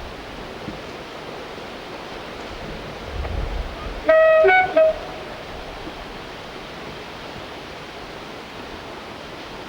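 Diesel locomotive's two-tone horn sounded once, about four seconds in: a high note, a lower note, then a brief high note, under a second in all. A low rumble swells just before it, over a steady hiss.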